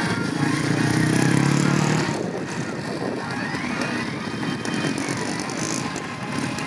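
A vehicle engine running, its pitch rising slightly for about two seconds before it drops back into a rougher, crackly outdoor din.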